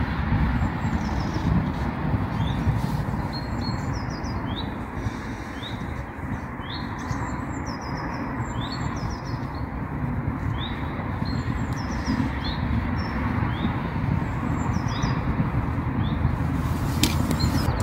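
A small bird calling over and over with short rising chirps, about one a second, over a steady rushing background noise. A sharp click comes near the end.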